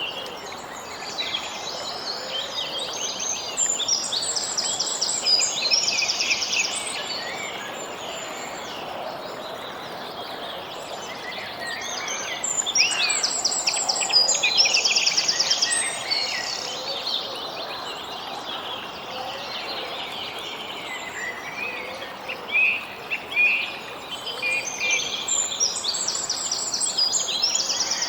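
Songbirds chirping and trilling in three bouts, about four, twelve and twenty-four seconds in, over a steady background hiss.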